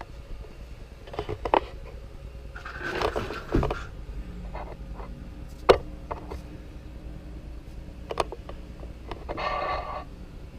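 Handling of RC trucks on a workbench: a few scattered knocks and clicks, the sharpest about six seconds in, with two short rustling stretches.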